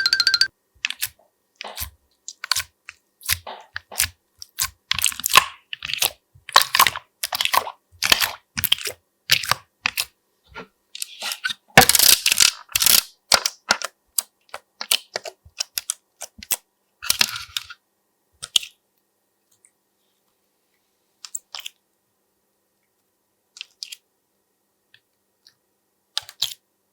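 Slime being worked by hand, giving quick runs of crackling, popping clicks that thin out to a few scattered clicks in the last third.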